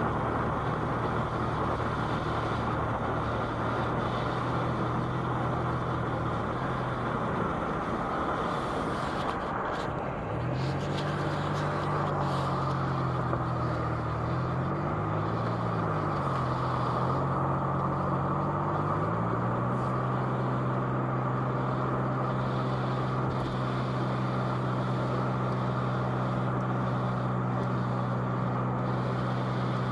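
A car's engine and tyre noise heard from inside the cabin while driving. The steady engine hum dips and wavers in pitch around the middle, then settles a little higher for the rest.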